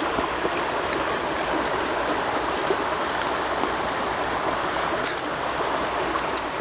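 Water running steadily in a continuous rush, with a few light clicks on top.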